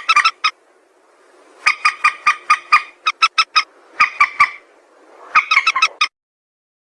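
Calls of the mandar sawah, a rail: several bursts of short, rapid repeated notes, about five to eight a second. The calls cut off abruptly about six seconds in.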